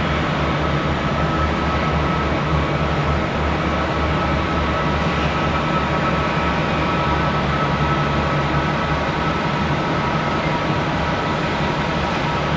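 Jet airliner engines running with a steady drone and a fixed high whine, no rise or fall in pitch.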